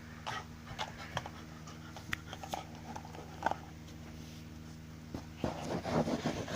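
A pet dog moving about on a hard floor, scattered light clicks and taps of its claws, over a steady low hum, with a busier stretch of scuffling near the end.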